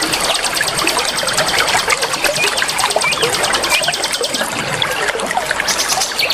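Many small songbirds chirping and trilling together over a steady trickle of running water. A fast, high rattling trill runs through the mix and stops about four seconds in.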